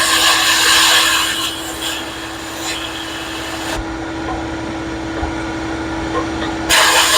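Glass-bead blasting: a loud hiss of compressed air and media from the blast gun for the first second and a half and again from near the end, over a steady motor hum that runs throughout.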